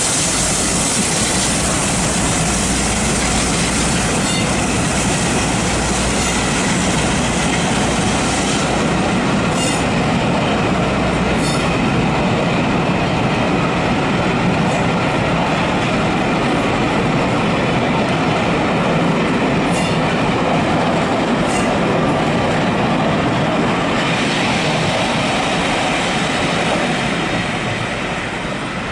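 Passenger train hauled by steam locomotive 60163 Tornado rolling past: a steady rumble of wheels on rail with pairs of clicks as bogies cross rail joints, dropping away near the end.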